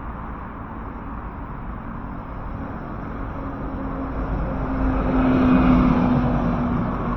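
A road vehicle passing, its engine hum and tyre noise growing louder to a peak about five and a half seconds in, then easing off.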